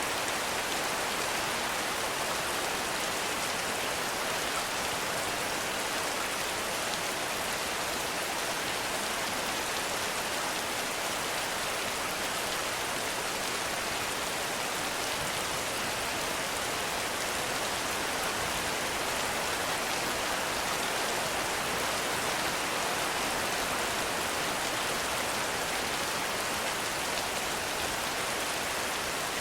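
Heavy rain falling steadily, an even hiss of countless drops with no thunder or other events.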